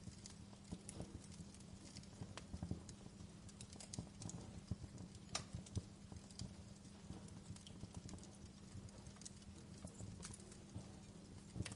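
Wood fire crackling: a dense run of small low crackles with scattered sharp pops, one louder pop about five seconds in and another near the end, over a steady low hum.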